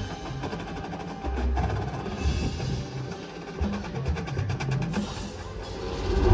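Drum and bugle corps percussion playing a quieter passage: low drum hits with clicking wood-block-like strokes and scattered mallet percussion notes, swelling louder near the end.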